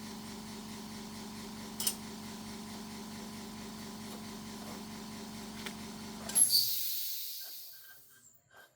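A machine running steadily, with a hum and a regular low pulse, that stops about six seconds in. A loud hiss follows and fades away over the next second or two. A single sharp click comes near two seconds in.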